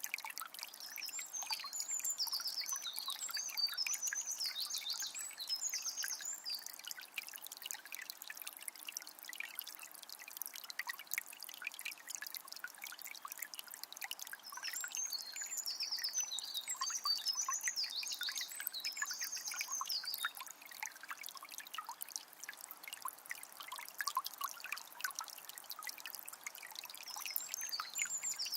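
Water of a small spring trickling and splashing steadily. A bird sings high twittering phrases over it twice, near the start and again around the middle.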